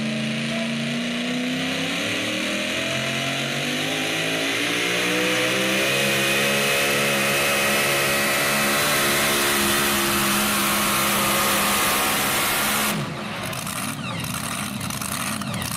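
Super modified four-wheel-drive pulling truck engine at full throttle during a pull, revs climbing over the first several seconds and then held high. About 13 seconds in the engine note cuts off abruptly, leaving a much quieter sound.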